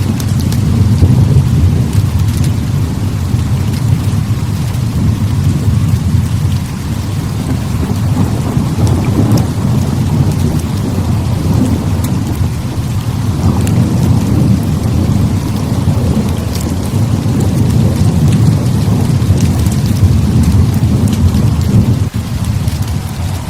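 Heavy rain pouring, over a deep, continuous rumble of rolling thunder that swells and eases. Scattered sharp ticks sound through it.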